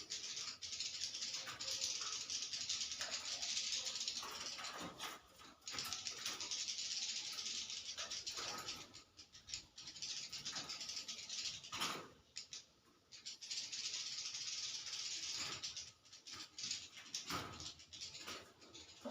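A colony of white-nest swiftlets twittering densely and high inside their nesting house, with many sharp clicks through it. The twitter drops away for a moment several times.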